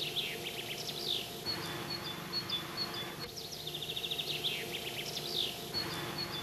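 A songbird singing, the same phrase heard twice about four seconds apart: a quick even trill, a few falling notes, then short high chirps, over a faint steady hum.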